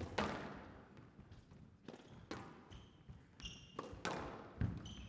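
Squash rally: the hard rubber ball is struck by rackets and cracks off the court walls every second or so, each hit echoing in the enclosed court, with short squeaks of court shoes on the wooden floor between hits.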